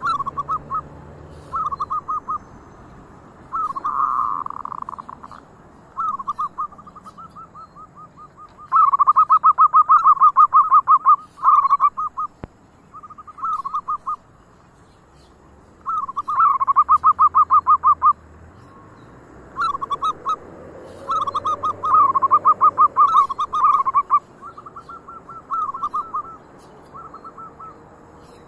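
Zebra doves (perkutut) cooing in repeated short phrases of rapid staccato pulses. Several longer, louder runs of fast pulses come in among them.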